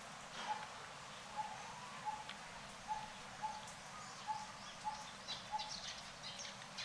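An animal call repeated over and over: a short note of the same pitch about every half second to second, with higher, quicker chirps in the second half.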